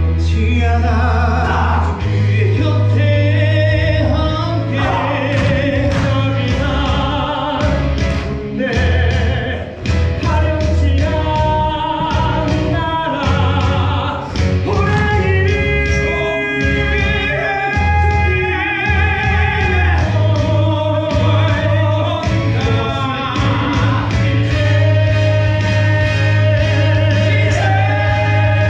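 Musical theatre number sung loudly by a group of male voices over full accompaniment with a heavy, steady bass line.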